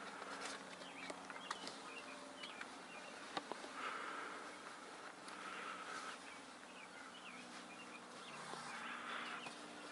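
Faint outdoor ambience: small birds chirping, over a low steady hum and a few scattered ticks.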